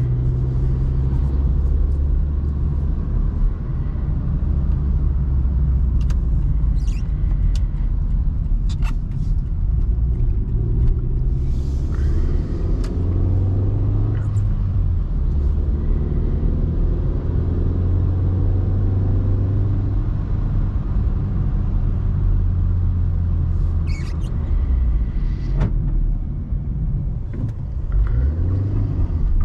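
2005 Opel Meriva's 1.4-litre four-cylinder petrol engine running under way, with road noise. The low engine note steps up and down a few times as engine speed changes.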